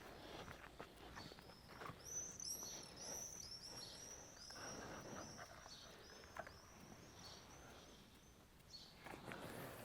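Faint, rapid high chirps from birds, thickest in the middle of the stretch, over quiet outdoor background.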